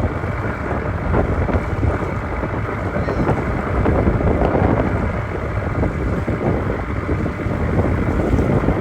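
Heavy wind buffeting the microphone aboard a small boat under way at sea, a loud, steady, gusting rush.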